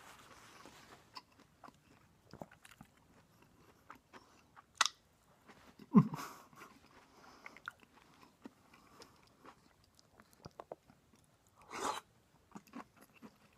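A person chewing and biting into a grilled lobster salad sandwich: soft, close-up chewing and mouth clicks, with a few louder bites about five, six and twelve seconds in.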